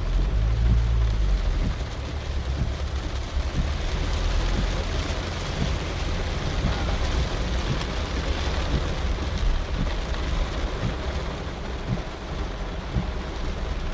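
Steady rain, with a deep low rumble underneath that is strongest in the first couple of seconds.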